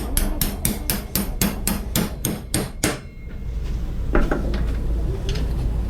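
Hammer blows driving a 1/2-inch carriage bolt through a wood-and-steel sandwich beam: a quick, even run of about four strikes a second that stops about three seconds in, followed by a few lighter knocks.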